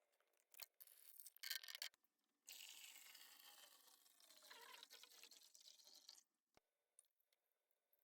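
Liquid poured steadily into a container for about four seconds, a quiet splashing hiss with some gurgling, after a few light plastic handling clicks.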